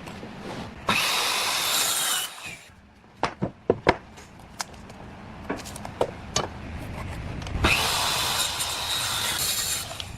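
A woodworking power tool cutting or sanding wood in two bursts: one of about a second and a half, then a longer one near the end. In between come a few sharp knocks of wood being handled.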